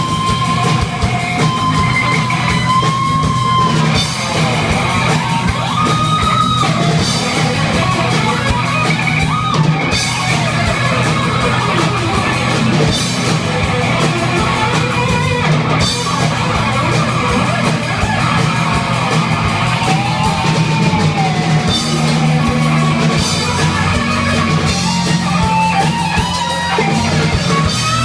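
Heavy metal band playing: a drum kit and distorted electric guitars, with a lead guitar bending and sliding notes.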